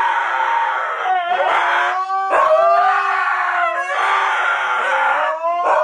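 Dog howling in long, drawn-out notes that waver up and down in pitch, breaking briefly for breath every second or so.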